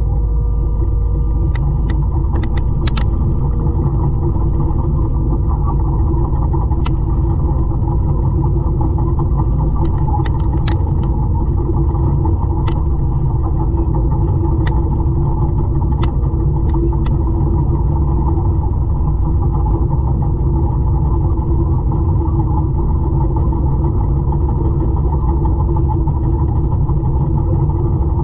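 200-horsepower forestry mulcher running under load while clearing brush: a loud, constant low drone with steady tones from the engine and mulching head. Scattered sharp ticks sound through it, most of them in the first half.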